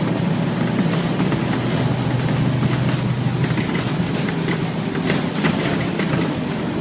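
Scania N230UD Omnicity double-decker bus running, a steady low engine hum from its Euro V five-cylinder diesel through the 6-speed ZF gearbox, with a few light rattling clicks in the middle.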